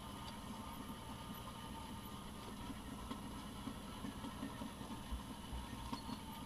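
Off-road vehicle engine idling steadily, with a couple of brief low thumps about five seconds in.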